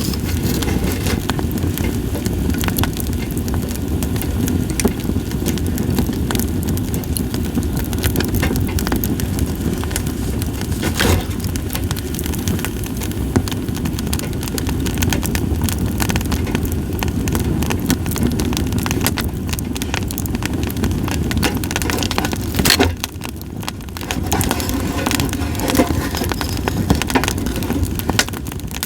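Campfire of split sawtooth oak (kunugi) logs crackling, with many sharp pops over a steady low rumble; a couple of louder pops stand out, about 11 and 23 seconds in.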